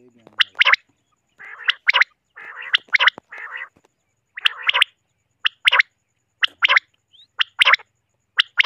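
Common quail calling: sharp two-part call notes repeated about once a second, with a rougher, buzzier run of calls between about one and four seconds in.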